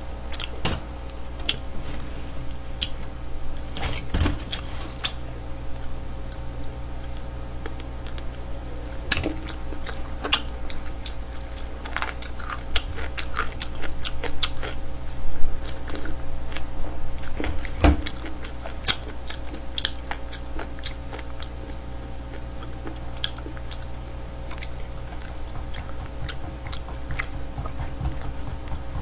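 Close-miked chewing and biting of smoked chicken, with scattered wet clicks, smacks and crackles, over a steady low electrical hum.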